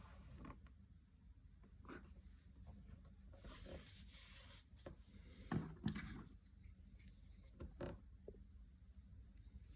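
Faint handling sounds: a brief rubbing or scraping, then a few light knocks, the loudest two close together past the middle.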